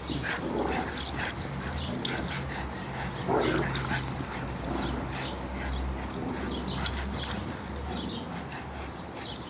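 Two dogs playing tug of war with a rope, whining and panting with short scuffling noises as they pull; a brief whine comes about three and a half seconds in. One dog is panting hard because it is tired.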